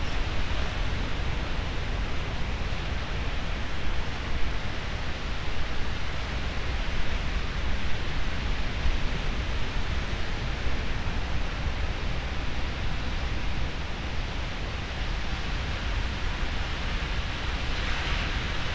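Steady wash of ocean surf breaking on the beach, mixed with wind rumbling on the microphone.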